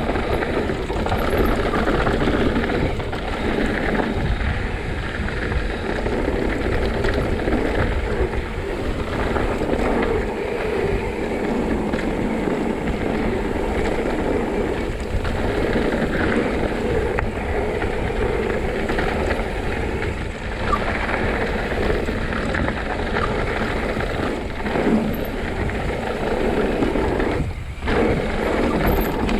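Steady wind buffeting the microphone over a low rumble and rattle of fast movement, as from a camera on a rider going downhill.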